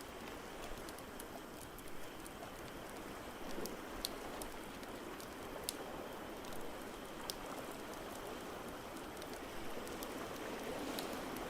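Ambience mix of a steady, rain-like hiss with scattered sharp crackles from a wood fire in a fireplace.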